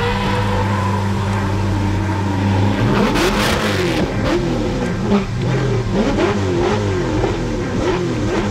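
Drift car engine held at high revs for about three seconds, then revved up and down in quick repeated swells.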